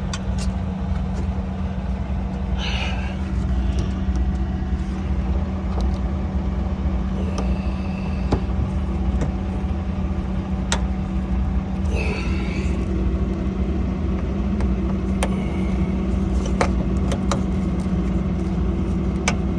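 An engine idling steadily, giving a constant low hum. Over it come scattered sharp clicks and knocks from handling the cab filter cover and its quarter-turn fasteners.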